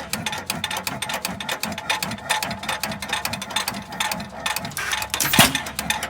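Antique engine running, its exposed rocker and valve gear making a fast, even mechanical clatter, with one sharper knock about five seconds in.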